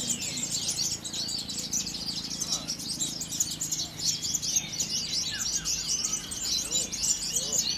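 Many caged songbirds singing at once in a contest line, a dense tangle of fast, high-pitched chirps and trills, with a few lower, shorter calls a little after the middle. A low steady hum runs underneath.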